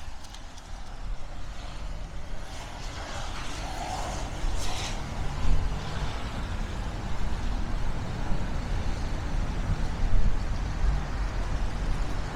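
Street traffic ambience: road vehicles running with a steady low rumble, and a short hiss about five seconds in.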